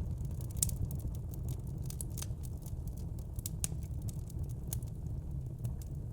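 Wood burning in a fire pit, crackling with frequent irregular sharp pops and snaps over a steady low rumble of the flames.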